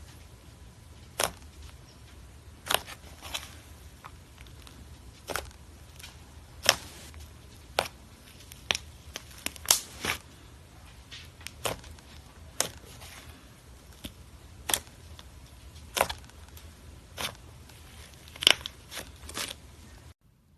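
Butter slime being worked by hand, giving sharp, short pops about once a second as trapped air bursts. The sound cuts off abruptly near the end.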